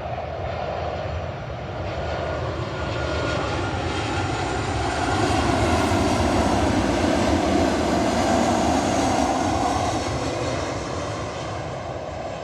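Southwest Airlines Boeing 737 jet airliner passing by: its engine noise builds, is loudest about halfway through, and fades as it moves away.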